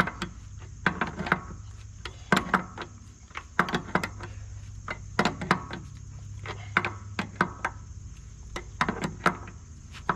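Hand tools clinking and tapping on the steel hydraulic fittings of an excavator's quick coupler: a string of sharp, irregular clicks and knocks over a low steady hum.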